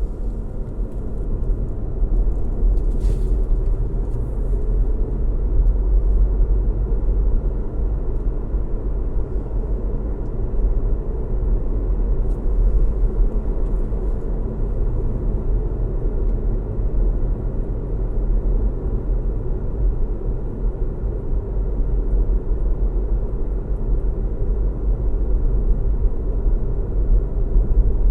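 A car driving at a steady pace: a continuous low rumble of road and engine noise, heaviest in the deep bass. A faint brief tick about three seconds in.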